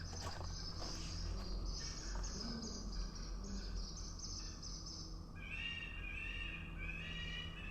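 Birds singing: a high, thin twittering, then from about five seconds in a run of repeated chirping phrases. A faint steady low hum lies underneath.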